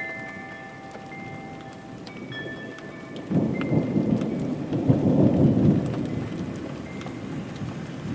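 Steady rain falling, with a rumble of thunder that breaks in suddenly about three seconds in, swells for a couple of seconds and dies away. A few faint chime-like ringing tones sound in the first half.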